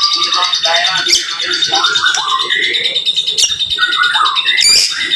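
White-rumped shama (murai batu) singing a fast, densely packed string of whistles, sweeping chirps and short sharp notes, the rapid-fire 'tembakan rapat' style of song.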